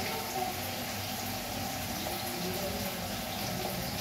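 Chopped goat intestine frying in oil in a pan, sizzling steadily as it is stirred with a spatula.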